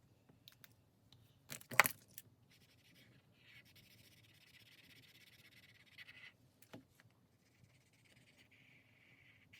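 A pen scratching across paper in long, steady scribbling strokes, colouring in. A brief loud clatter comes about two seconds in.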